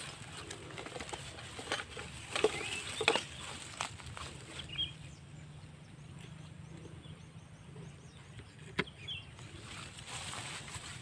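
Rustling grass and snapping twigs being pulled and cleared by hand, with irregular sharp cracks, busiest in the first half and one sharp crack near the end; a few short bird chirps.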